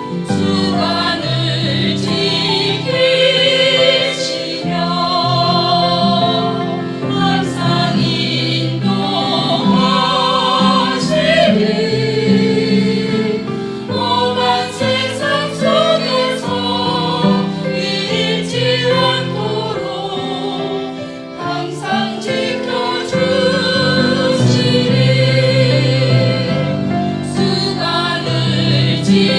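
Small church vocal ensemble singing an offertory hymn in harmony, with steady held and moving sung notes.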